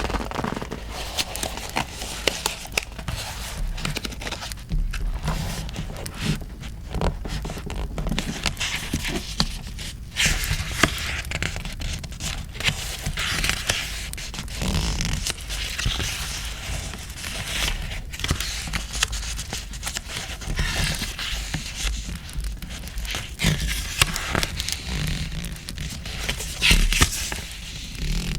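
Paper and stationery handled at a desk: repeated scraping and rustling with scattered sharp clicks and taps, over a crackling campfire background.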